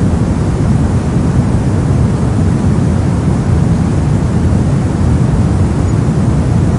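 Brown noise: a steady, even, low-heavy rushing hiss with no changes or events.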